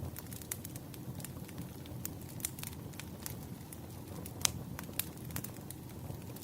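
Wood fire crackling in a fireplace: irregular sharp pops and snaps over a steady low rumble, the loudest pop about four and a half seconds in.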